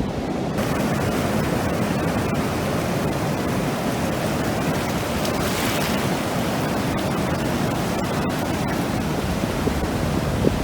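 Ocean surf washing onto the beach, a steady rush of breaking waves, with one wave swelling louder about halfway through.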